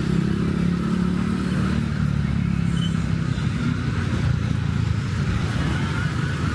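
Street traffic passing, with a nearby motor vehicle's engine running as a steady low hum that is strongest over the first few seconds, then eases into the general traffic rumble.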